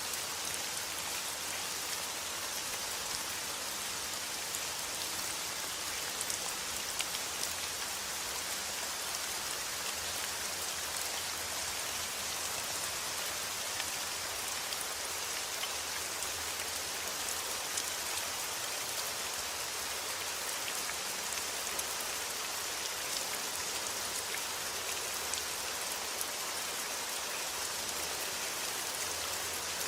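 Steady rain: a dense, even hiss of drops pattering on a surface, with no letup.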